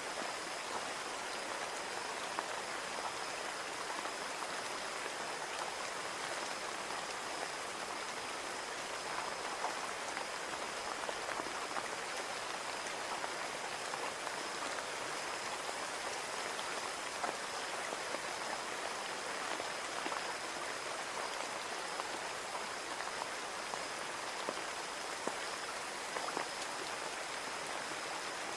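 Steady rain falling on a window, with many small drop ticks against the glass.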